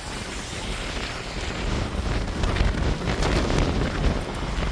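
Wind buffeting a phone's microphone in a snowstorm: a low rumbling rush that grows a little louder about two seconds in.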